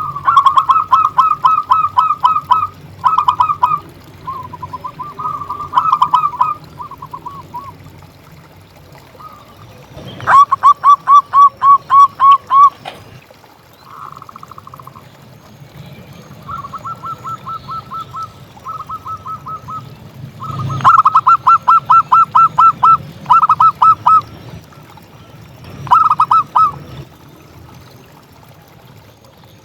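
Zebra dove (perkutut) singing: phrases of rapid staccato cooing notes, about four to five a second, some loud and some fainter, separated by short pauses.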